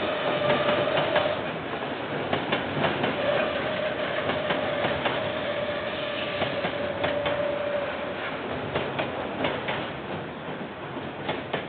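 KiwiRail freight train's container wagons rolling past, wheels clicking over the rail joints, with a thin steady whine for much of the first two-thirds. The sound gradually fades near the end as the last wagons go by.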